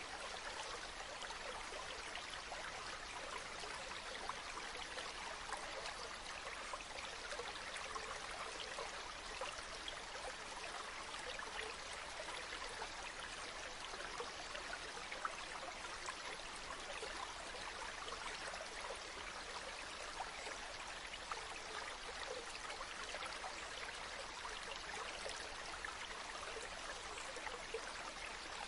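Waterfall: a steady rush of falling water with fine splashing and trickling, mostly a bright hiss with little deep rumble.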